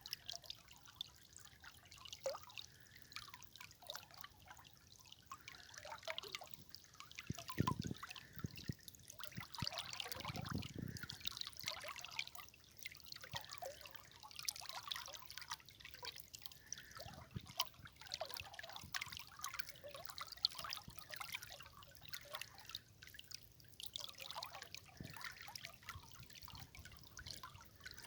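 River water trickling over stones, with many small irregular drips and splashes and a couple of fuller, deeper surges partway through.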